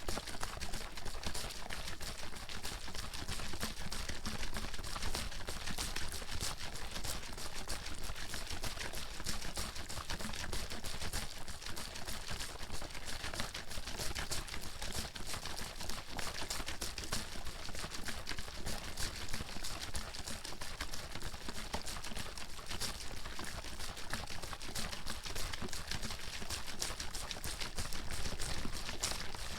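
Water bottle being shaken without pause, the water sloshing and slapping inside in a fast, dense, even rattle.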